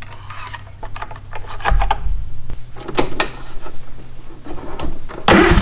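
Clicks, knocks and clattering from hands working on the mower, with a louder rush of noise near the end.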